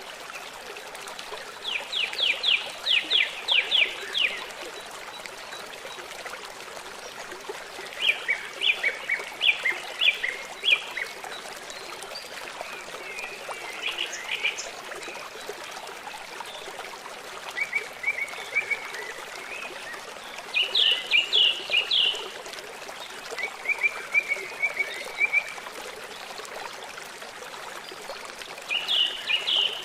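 Flowing river water running steadily, with a songbird repeating short phrases of rapid high notes every few seconds.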